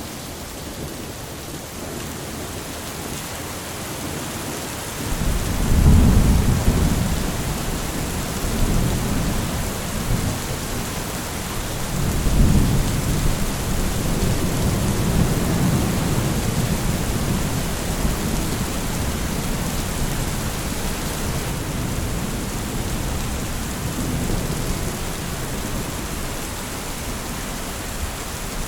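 Steady rain with rolling thunder: a deep rumble breaks in about five seconds in, swells again around twelve seconds, and rolls on more softly under the rain to the end.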